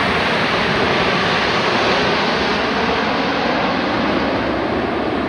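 Jet aircraft roar, a loud, steady rushing noise with no clear pitch that eases off slowly near the end.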